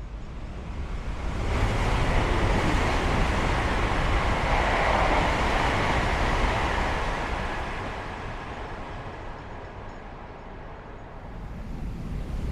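A Chinese high-speed EMU train passing at speed: a steady rushing noise builds over the first second or two, holds, then fades away by about ten seconds in. Near the end, another rush starts to build.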